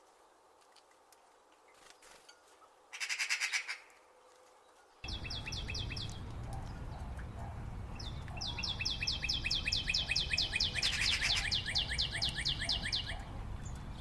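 A small bird singing rapid trills of quickly repeated high notes: a short burst about three seconds in, then longer trills over a steady low outdoor rumble that starts abruptly about five seconds in.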